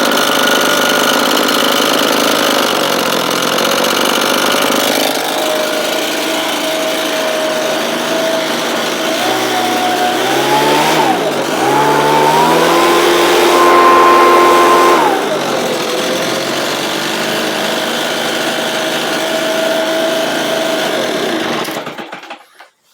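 Small engine-driven blower running, revved up about ten seconds in, held high for a few seconds, then dropping back to a lower speed before it is shut off near the end.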